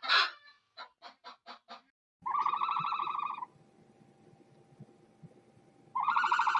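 Domestic fowl calling: a loud honk at the start, a quick run of short calls, then two long honking calls of about a second each, a few seconds apart.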